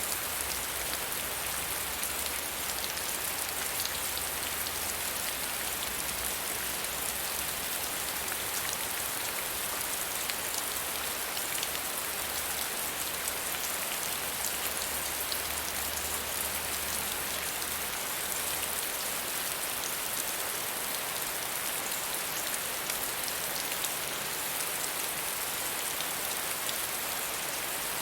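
Steady soft rain falling on a surface, an even hiss dotted with the fine patter of individual drops.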